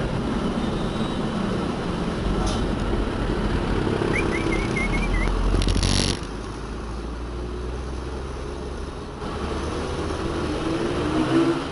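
Heavy diesel vehicle engine running, building louder and then dropping off suddenly about six seconds in.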